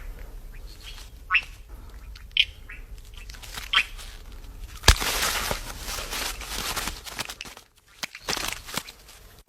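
Male leaf-folding frogs giving short, rising chirp calls, a few single calls about a second apart, while rivals contest the top calling perch. A sharp click about halfway through is followed by a couple of seconds of hissing noise.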